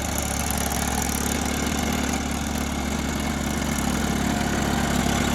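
Eicher 480 tractor's diesel engine running steadily at an even, unchanging speed.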